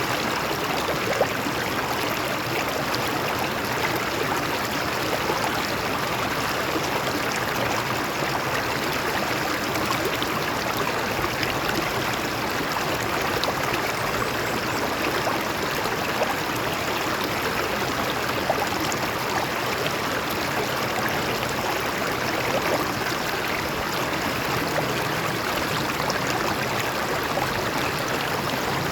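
A stream running over rocks: steady rushing and trickling, with small splashes scattered through it.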